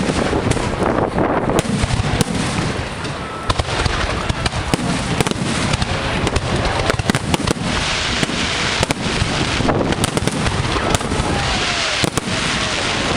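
Firework display in full swing: a rapid, unbroken barrage of shell bursts and bangs, with spells of dense crackling about two-thirds of the way in and again near the end.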